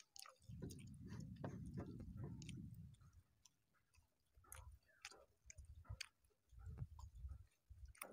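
Faint chewing and mouth clicks of a man eating rice and curry by hand. The chewing comes in two bouts, a longer one in the first few seconds and a shorter one about two-thirds of the way through, with soft clicks in between.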